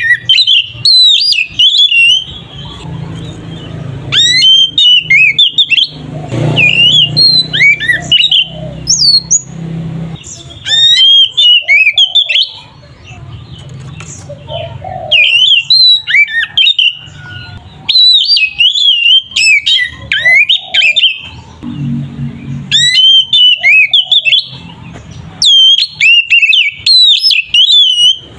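Oriental magpie-robin singing loudly in phrases of rapid, clear whistled notes that sweep up and down, with short pauses between the phrases.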